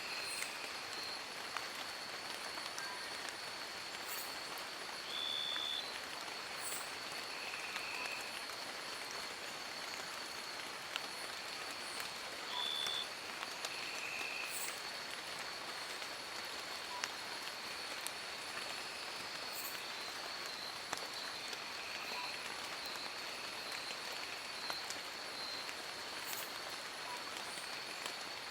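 Steady rain pattering on forest leaves, with scattered sharp drips. A thin high-pitched tone runs through it, and a few short high calls break in now and then.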